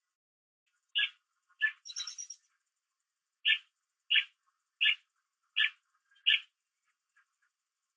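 A bird calling with a series of short, sharp notes about two-thirds of a second apart, with a brief higher twittering about two seconds in.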